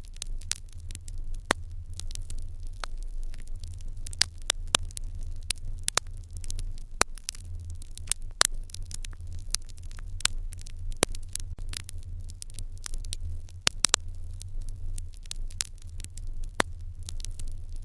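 Wood fire in an irori hearth crackling, with frequent irregular sharp pops over a steady low rumble.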